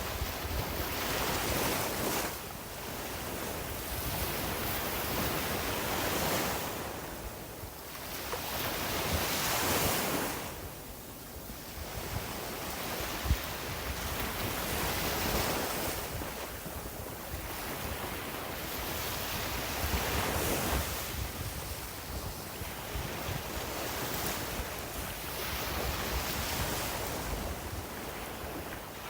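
Sea waves breaking and washing up a beach, swelling and fading every few seconds, with wind rumbling on the microphone.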